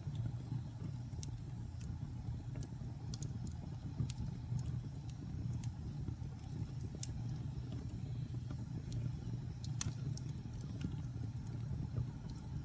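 Wood campfire burning: a steady low rumble of flames under irregular sharp crackles and pops from the burning logs, with one louder pop about ten seconds in.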